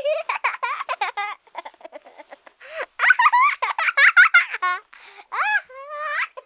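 Young children giggling and squealing in high voices, with quick pulsing laughs, cutting off abruptly at the end.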